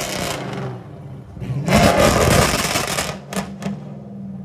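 Car engine idling, revved hard twice with rising pitch, followed by two sharp cracks as the revs drop.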